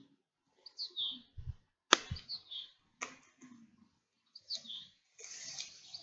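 Small birds chirping in short, high, repeated notes. A sharp click about two seconds in is the loudest sound, with another click a second later, a couple of dull low thumps, and a brief rustle near the end.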